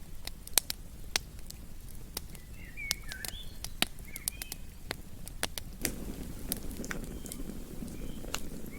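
Campfire crackling, with irregular sharp pops and snaps over a low steady rumble. A few short bird chirps come in about the middle.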